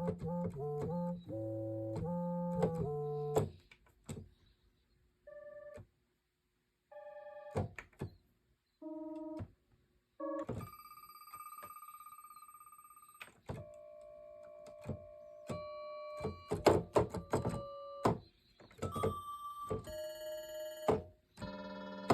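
Yamaha DX7 FM synthesizer playing a run of different preset sounds from a VRC-105 voice cartridge: chords, then short bell-like notes with gaps between them, a long held tone, a cluster of sharp percussive hits, and more held notes near the end.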